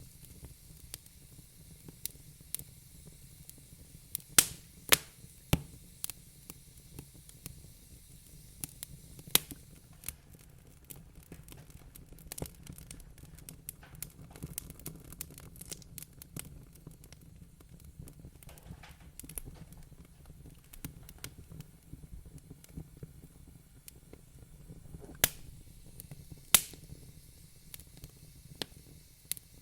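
Wood fire crackling in a fireplace: irregular sharp pops and snaps over a soft hiss and low rumble, with a few louder pops scattered through.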